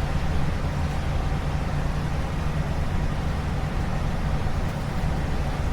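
Generator engine running steadily with a constant low hum. It is powering the food truck's warmers and keeps shutting off without any code, which the owner suspects is overload.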